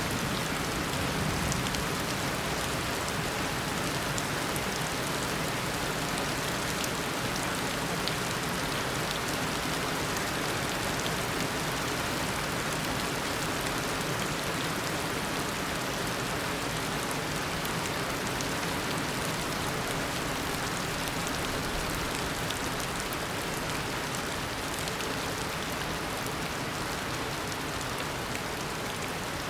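Heavy tropical rain falling in a steady downpour, a dense hiss of drops with fine individual patters on surfaces.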